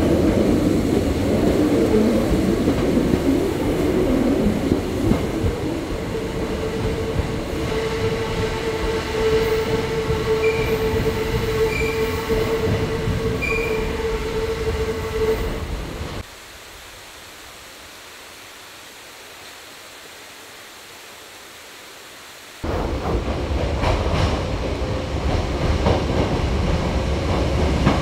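Hakone Tozan Railway electric train running, heard from the front of the car: rumbling running noise with a steady whine through the middle and three short high beeps. About sixteen seconds in the sound drops abruptly to a much quieter steady background, and after about six seconds the running noise returns with regular rail clicks.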